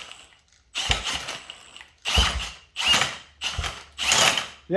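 A 1960s Mercury outboard's flywheel and engine being turned over in five short mechanical bursts of about half a second each, with clicking and ratcheting, during a spark check. The engine does not fire; it does show spark.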